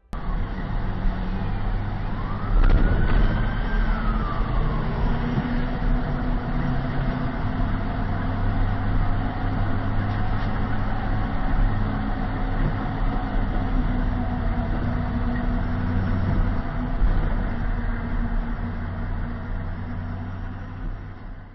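Dashcam recording of road traffic: steady vehicle engine and road noise, with one rising-then-falling wail, like a siren, about two and a half seconds in, where the sound gets louder.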